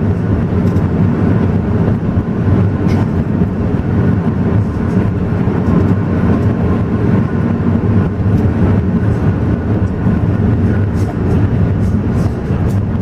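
Alishan Forest Railway train running: a steady, loud rumble.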